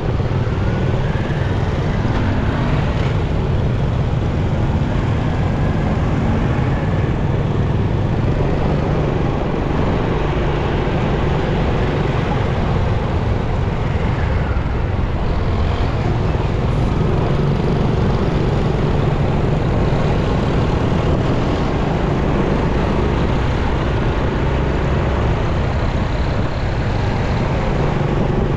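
Motorcycle riding through city traffic: its engine runs steadily under a constant rumble of road noise and passing vehicles.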